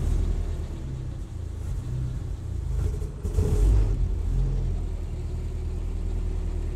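Willys Jeep's L134 Go Devil four-cylinder side-valve engine running unevenly just after a cold start on choke, fighting to keep going on its freshly rebuilt Carter WO carburettor. It swells louder briefly about three and a half seconds in, then settles into a steadier run.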